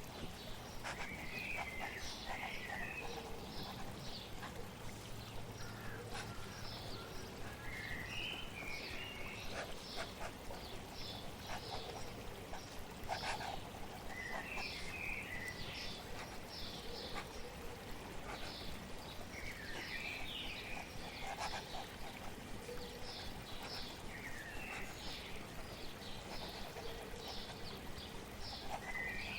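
Steady flowing water with small birds chirping in short clusters every few seconds. Short high scratches come about twice a second throughout.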